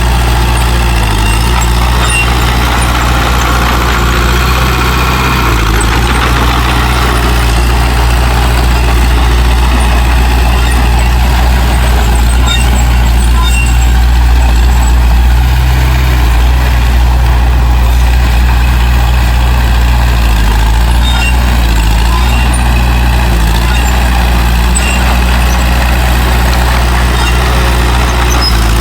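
Heavy diesel engine of earthmoving machinery running steadily with a deep drone, its pitch stepping slightly a few times.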